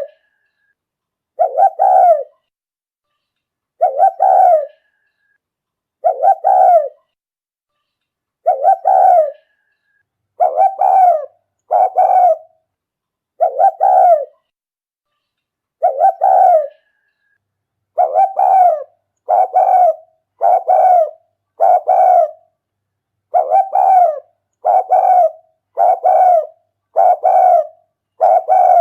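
Spotted dove cooing in repeated short phrases, a decoy call used to lure wild doves. The phrases come about every two seconds at first, then quicken to about one a second from roughly two-thirds of the way in.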